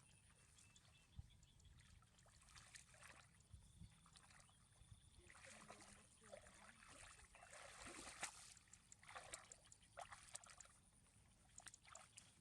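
Faint water sounds: soft, irregular sloshing and trickling with small clicks.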